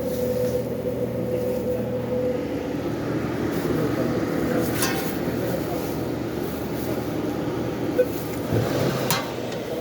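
Steady machinery hum with a faint high tone running through it, broken by a few short sharp clicks about five, eight and nine seconds in.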